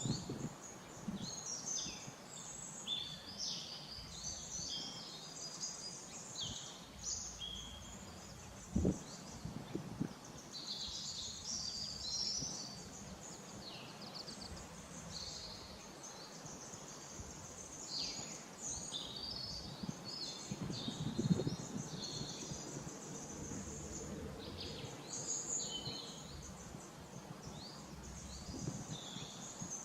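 Songbirds singing and chirping, many short high calls overlapping. A brief low thud comes about nine seconds in, and a low rumble follows around twenty-one seconds.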